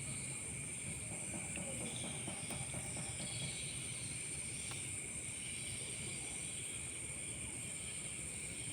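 Steady chorus of night insects: a continuous high-pitched trill in two pitch bands that holds unchanged throughout.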